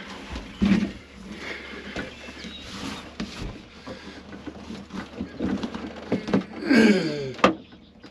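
A panel is being shifted by hand, with irregular scraping, rubbing and light knocks. Near the end there is a drawn-out sound falling in pitch, followed by a sharp click.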